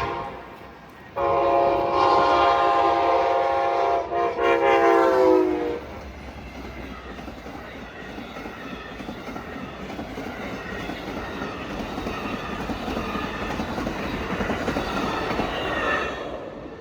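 Amtrak passenger train's locomotive horn sounding a loud chord from about a second in, with a short break near four seconds, stopping about six seconds in. Then the train passes at speed with a rising rush of wheel and rail noise that falls away sharply near the end.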